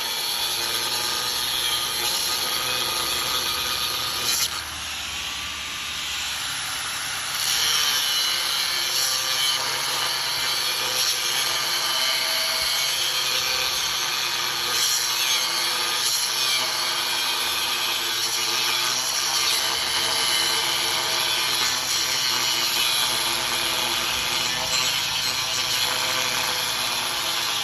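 Power tools working steel for a parang blade, a continuous grinding and cutting noise. It drops back about four and a half seconds in, then comes up again about three seconds later.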